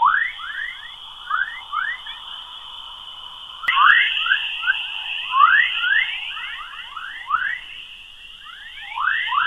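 Space sound of the kind made from spacecraft recordings of planetary radio waves: a steady high whistling tone with many quick rising chirps in irregular clusters. It gets louder about four seconds in.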